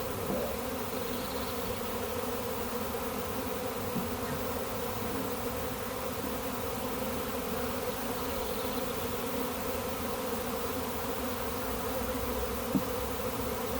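A large swarm of honey bees humming steadily around a hive box as they settle into it, a dense buzz of many wingbeats. One small click about thirteen seconds in.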